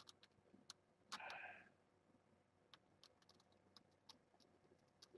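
Near silence with faint scattered clicks and a short rustle about a second in, from a homemade plastic sandwich-bag formula feeder being handled and its cap twisted to slow the flow.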